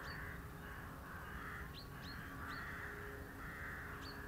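Birds calling: a harsh, rough call repeated about once a second, with several short, thin high chirps among them.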